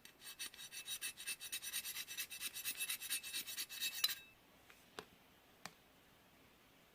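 Slime being worked by hand, giving a fast, dense crackle of tiny pops and clicks for about four seconds, which then stops; two single sharp clicks follow.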